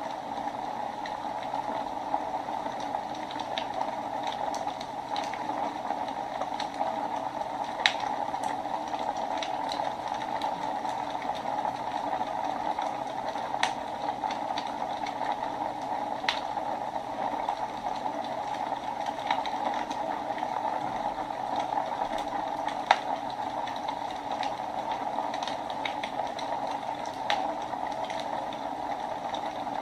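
Wood fire burning in a fireplace: a steady rushing hiss with irregular crackles and a few sharper pops scattered through.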